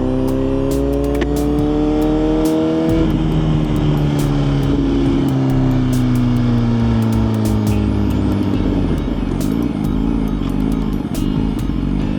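Suzuki GSX-R1000 inline-four engine pulling up through the revs for about three seconds, then winding down for several seconds as the throttle closes. Near the end the engine note wavers up and down.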